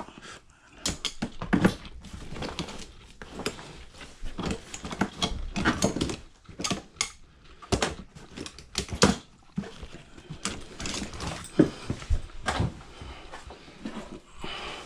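Irregular knocks, clicks and clatter of parts being handled and moved while a front-loading washing machine is taken apart.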